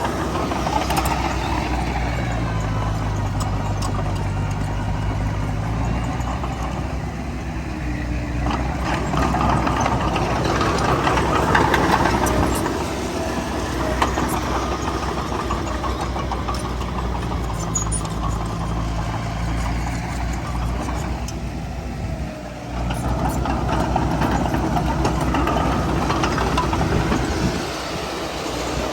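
Heavy diesel earthmoving machinery running as a bulldozer and dump trucks work: a continuous low engine drone whose note shifts as the load changes, with a few scattered clanks.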